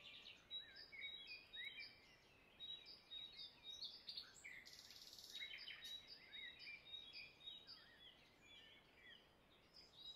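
Faint chorus of small birds chirping, with repeated short high notes and quick rising calls, and a brief high hiss about five seconds in.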